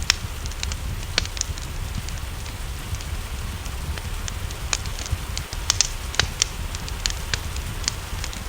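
Wood fire crackling with sharp irregular pops over a steady low rumble, mixed with a soft hiss of rain.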